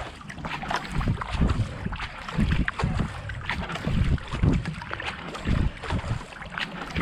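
Racing kayak paddle strokes, the blades dipping and splashing in a steady rhythm of about 70 to 80 strokes a minute. Wind buffets the action camera's microphone with a gusty low rumble.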